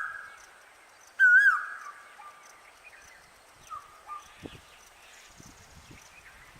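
A bird calling: a loud, quavering whistled note about a second in that trails off lower, followed by fainter, shorter calls.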